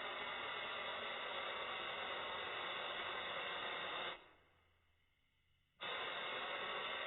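Air-powered spray gun hissing steadily as bedliner is sprayed. It dies away for about a second and a half, then starts again abruptly.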